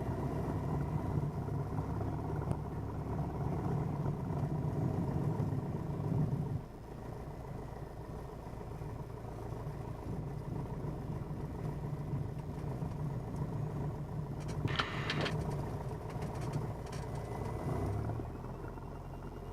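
Cessna 172N's four-cylinder Lycoming O-320 engine running steadily at low power, heard from inside the cabin; its level drops about six and a half seconds in. A brief clatter about fifteen seconds in.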